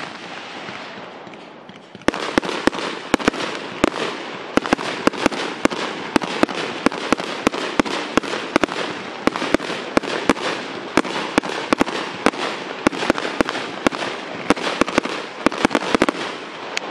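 Aerial firework shells bursting: a crackle dying away, then from about two seconds in a rapid barrage of sharp bangs, several a second, over a continuous crackle. The bangs stop shortly before the end, leaving the crackle to fade.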